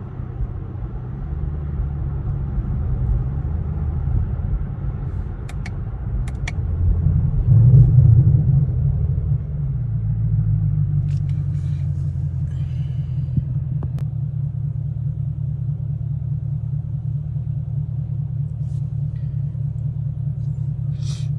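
Muffler-deleted Chevrolet Camaro SS V8 exhaust heard from inside the cabin: a deep rumble that swells louder about eight seconds in, then settles into a steady, loud idle.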